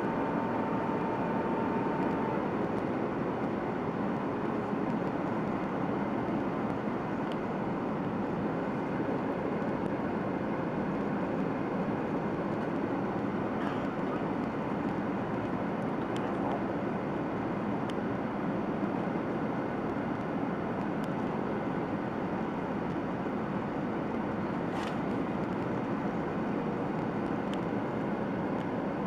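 Steady roar of a Boeing 737-800's cabin in flight: airflow and its CFM56-7B turbofan engines, with a faint steady tone over it for the first couple of seconds.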